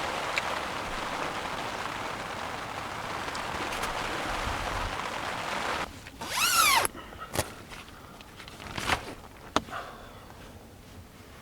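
Steady rain hiss for about six seconds, then it stops abruptly and a short, loud zipper rasp sounds. A few light knocks and handling clicks follow.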